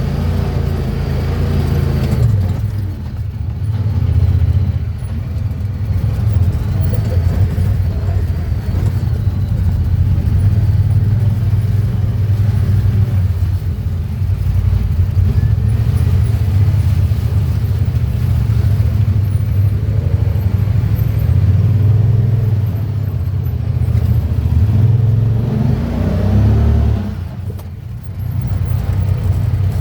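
Side-by-side UTV engine running while driving a trail, its pitch rising and falling with the throttle, with a brief lull a little before the end.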